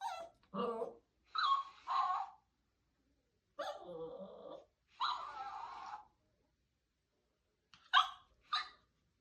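A puppy barking and yelping in a string of short calls, with two short sharp barks near the end. It is a frightened puppy barking at a moving toy doll.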